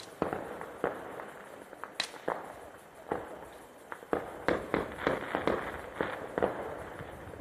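Fireworks going off: a run of sharp bangs at irregular intervals over a crackling haze, coming thicker and faster from about halfway through.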